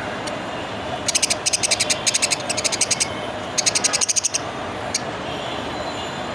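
Budgerigar giving a rapid run of short, high chirps, repeated several times a second, in two bursts: one of about two seconds, then a shorter one after a brief pause.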